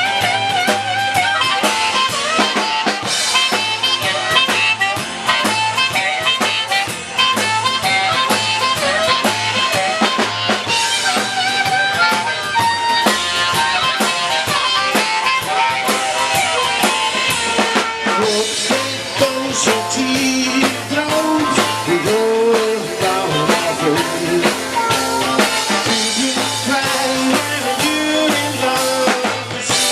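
Live rock and roll band playing an instrumental passage, with a steady drum kit beat under guitar and other lead lines.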